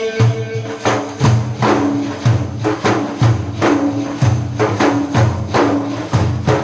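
Instrumental break in Iraqi madih: hand percussion, tambourine-like frame drums, beating a steady rhythm of deep strokes about two a second. A singer's held note fades out in the first second.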